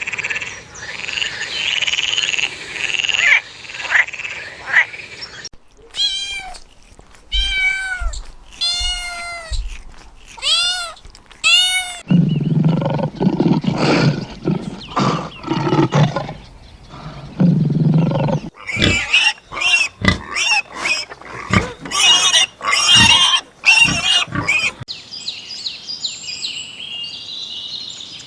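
A succession of different animal calls, one clip after another: a run of short calls that each rise and fall in pitch, then deep low calls, then a fast series of sharper calls.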